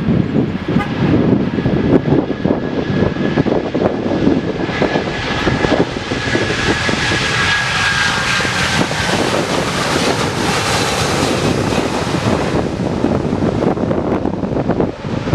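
Airplane engines running at takeoff power during the takeoff: a loud, steady roar with a thin high whine that fades out about nine seconds in.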